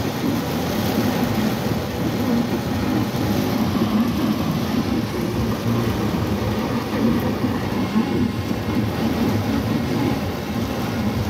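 Heavy rain falling on a car's roof and windshield, heard from inside the cabin as a steady low rumble.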